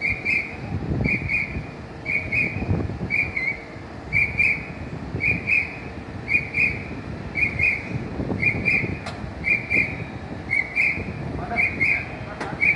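Electronic warning beeper on a fire vehicle sounding rapid, evenly repeating high double beeps, over a low rumble.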